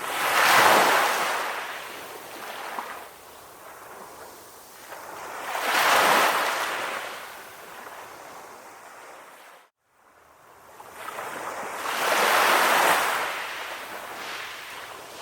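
Sea waves breaking and washing in, three swells about six seconds apart, each rising to a loud hiss and fading. The sound cuts out suddenly for a moment about ten seconds in.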